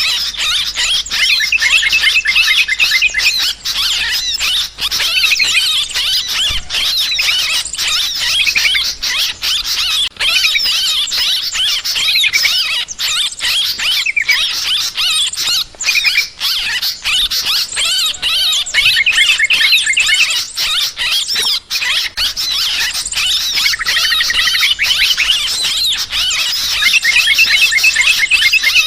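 Yellow-vented bulbuls chattering noisily, many rapid, wavering call notes overlapping without pause, as in an agitated flock.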